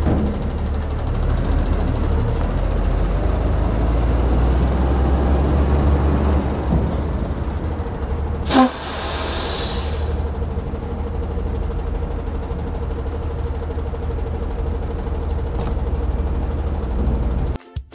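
Ford Cargo 2628 dump truck's diesel engine running steadily, heard from inside the cab. About halfway through comes a loud burst of compressed-air hiss from the air brakes, lasting about a second and a half.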